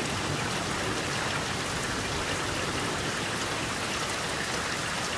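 Rain falling steadily during a thunderstorm.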